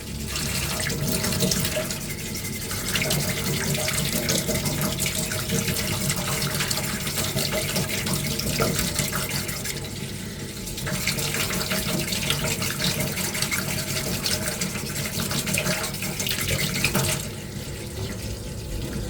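Waterproof sandpaper rubbing a small putty-coated armour ring under water: a steady scratchy swishing with water sloshing, easing off briefly about halfway through and again near the end.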